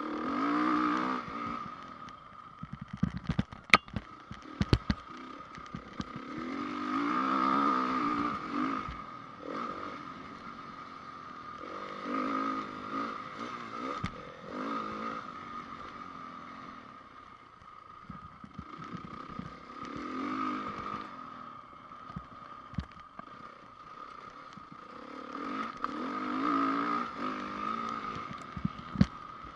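2010 Honda CRF450R's single-cylinder four-stroke motocross engine, its throttle opened and closed so the revs rise and fall in surges every few seconds. A burst of sharp knocks and clatter comes about three to five seconds in.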